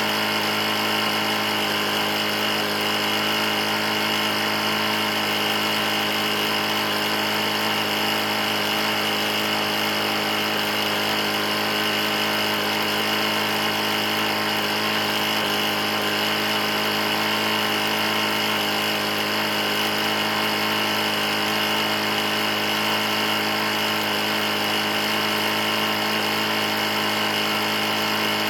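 Briggs & Stratton lawn mower engine running steadily at a constant speed. It is an engine with a bad knock, run after it was found nearly out of oil.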